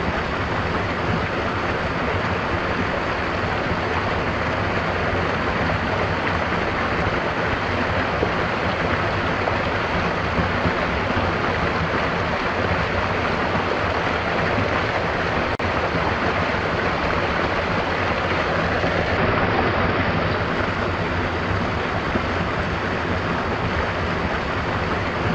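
A stream's water flowing steadily, a dense, even rush with no breaks.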